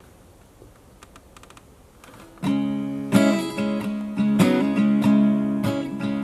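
A few faint clicks in near-quiet, then about two and a half seconds in a 1960s pop song starts with strummed acoustic guitar chords, one hit every second or so.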